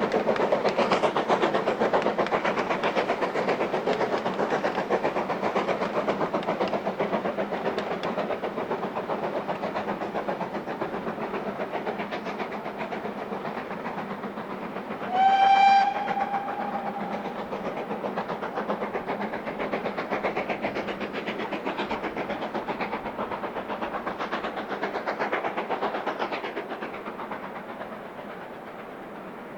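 Steam-hauled train running by with a rapid rhythmic clatter, loudest at first and fading toward the end. About halfway through, the locomotive's steam whistle gives one short blast.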